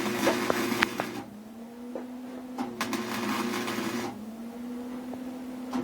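Welder laying short stitches on the thin sheet steel of a pickup's rear window frame: arc crackle in bursts of about a second and a half, twice and a third starting near the end, over the welder's buzzing hum, which carries on between the bursts.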